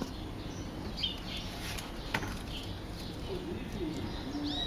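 Outdoor background with birds chirping here and there, a few short low calls near the end, and a single sharp click about two seconds in.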